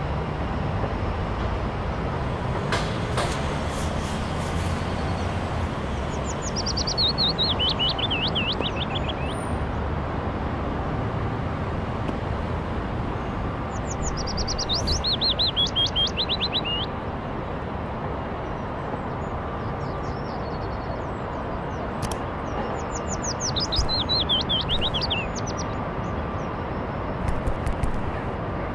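A songbird singing the same phrase three times, each a fast run of notes falling in pitch and lasting about three seconds, over a steady low background hum of outdoor ambience.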